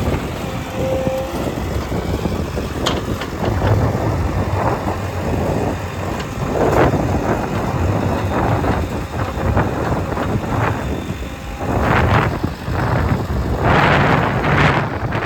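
Heavy diesel machinery engines running under load, a constant rumble with several louder noisy surges.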